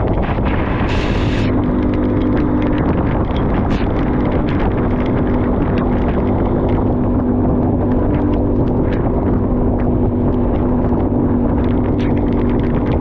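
Vehicle engine running steadily at speed, with wind rushing over the microphone and a brief hiss about a second in.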